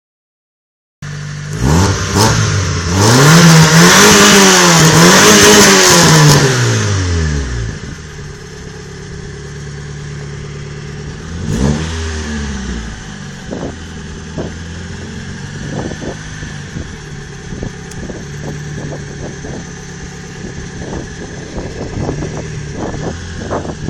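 Mazda 323F's 1.6-litre four-cylinder fuel-injected engine idling, then revved hard twice in quick succession up to high revs, near its rev limiter, before dropping back to idle. It gets one short blip of the throttle about halfway through, then idles steadily with scattered light clicks.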